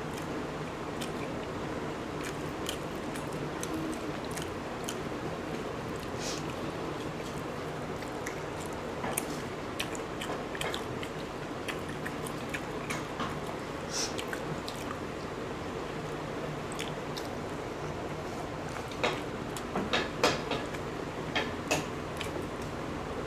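People chewing and biting into boiled eggs that have been fried, with short wet mouth clicks over a steady background hum. A run of louder clicks comes near the end.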